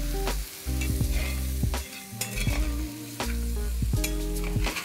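Chicken and ground spices frying in a brass pan, sizzling, while a spatula scrapes and knocks against the pan as the pieces are stirred, with many sharp clicks. Background music with steady low notes plays under it.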